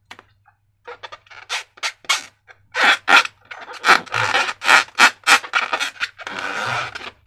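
Slime being squeezed and handled: a run of irregular, short, sticky squelches and crackles, beginning about a second in.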